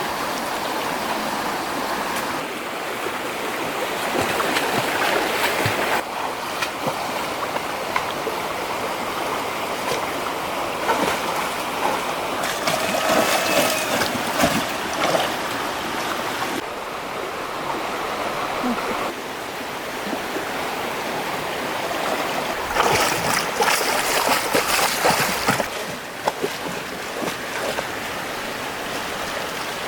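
Flowing stream water with splashing, its sound changing abruptly several times; a burst of sharper splashes comes about three quarters of the way through.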